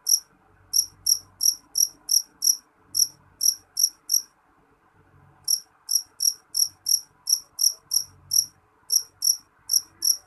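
Jangkrik jeliteng, a black field cricket, chirping shrilly in a steady run of about three short chirps a second, with a pause of about a second near the middle.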